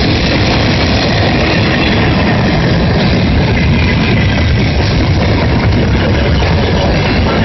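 Passenger coaches of a train rolling past close by at speed: a loud, steady rumble and clatter of wheels on the rails that does not let up.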